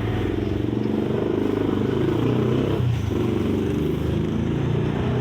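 A motorcycle engine running close by, its pitch rising and falling a little as it is throttled.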